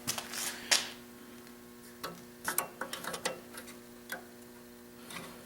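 Scattered sharp clicks and light metal taps, irregular and spaced out, with a small cluster about halfway through: hand tools working on the snowblower's carburetor fittings. A faint steady hum lies underneath.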